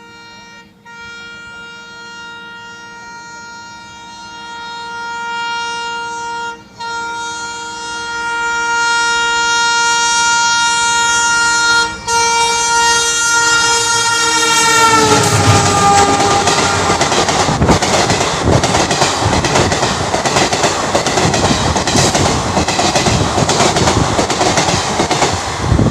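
Indian Railways locomotive horn sounded in one long blast with three brief breaks, growing louder as the train approaches. The horn drops in pitch as the locomotive passes about 15 seconds in. The train then rushes by with loud wheel and rail clatter.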